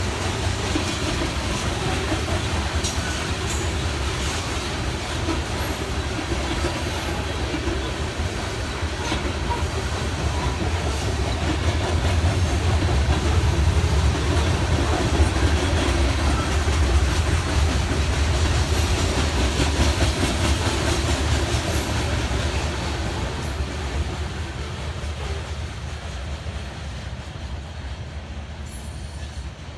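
BNSF grain train's freight cars rolling past, a steady rumble of steel wheels on rail that grows louder toward the middle and eases off near the end.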